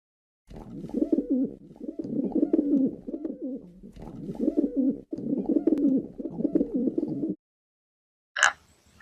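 A pigeon cooing in repeated low, wavering phrases, with brief breaks about 2 and 5 seconds in. A short, sharp sound comes near the end.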